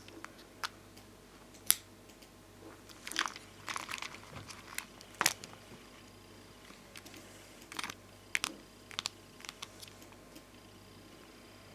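Bonbon drop and ohajiki stickers, glossy domed plastic stickers, being handled: scattered sharp clicks and light taps, with brief crinkly rustles around three to four seconds in and again around eight to nine seconds.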